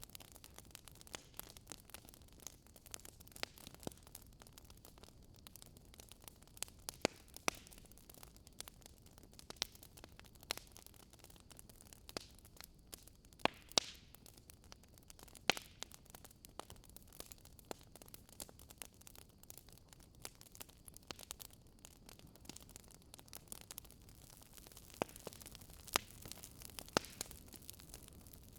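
Burning firewood crackling in a fireplace: irregular sharp pops and snaps over a faint steady hiss.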